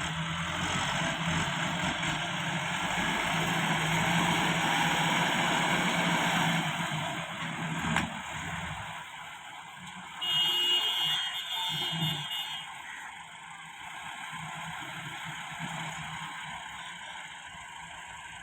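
A truck engine running with a steady hum, louder for the first eight seconds or so and then quieter. About ten seconds in, a short high-pitched tone sounds for a couple of seconds.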